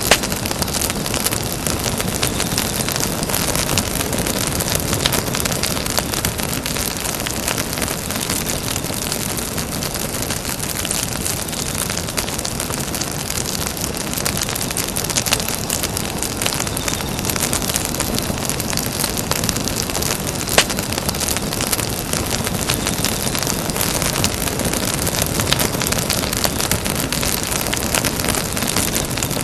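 Campfire burning with a dense, steady crackle and hiss, broken by a few sharper pops: one just after the start, one around halfway and one about two-thirds of the way through.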